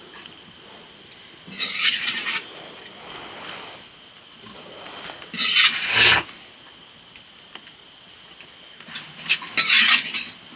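Three rough scraping strokes, each lasting about a second, the loudest in the middle, like a utensil or hand scraping against a pot or dish.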